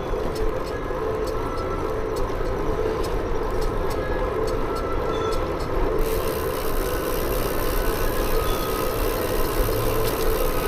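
Wind buffeting the microphone and road noise from a bicycle being ridden, a steady low rush with scattered light clicks in the first half. The higher hiss grows louder about six seconds in.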